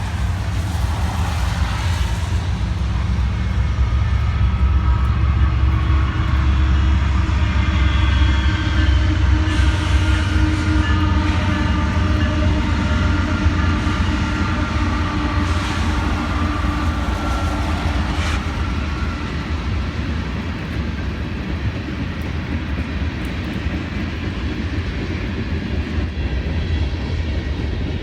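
Norfolk Southern mixed freight train rolling past: a steady low rumble of locomotives and cars on the rails, with several high, steady tones over the middle of the passage.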